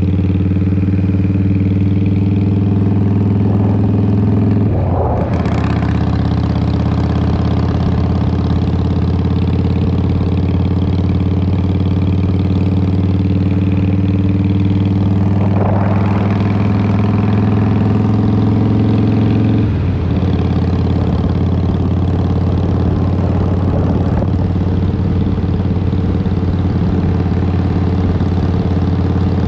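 2003 Harley-Davidson Fat Boy's Twin Cam 88 V-twin running through Vance & Hines exhaust while riding, a steady, loud engine note. The note breaks briefly about five seconds and again about sixteen seconds in, and drops lower in pitch near twenty seconds.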